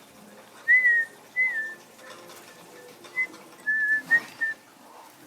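Six short, clear whistled notes at a similar pitch, some with a slight dip or rise, spaced unevenly through the few seconds.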